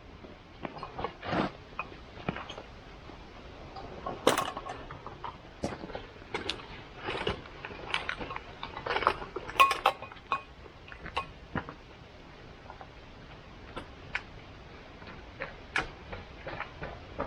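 Irregular small clinks and knocks of metal gear and cookware being handled, a few every second with short pauses between.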